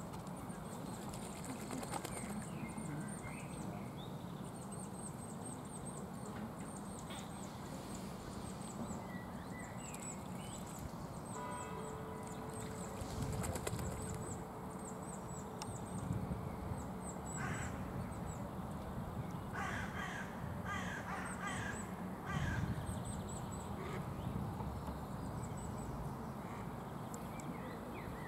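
Outdoor pond-side ambience with birds calling: a quick run of five or six harsh calls about two-thirds of the way through, an earlier single call, and faint high chirps throughout, over steady background noise.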